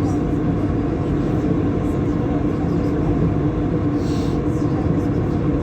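Lyon Metro line B train running, heard from inside the car: a steady rumble from the rubber-tyred running gear with a constant motor hum over it. There is a brief hiss about four seconds in.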